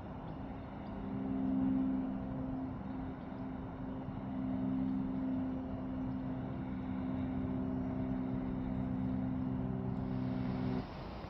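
A distant engine droning at a steady low pitch, swelling a little twice, then cutting off abruptly near the end.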